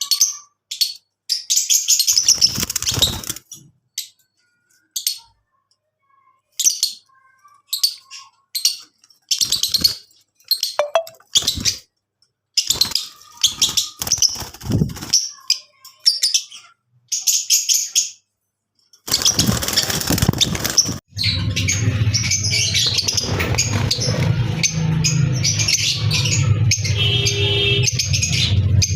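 Peach-faced lovebirds chirping in short, high bursts separated by gaps of silence. About two-thirds of the way through, a continuous low sound starts and carries on beneath the chirping.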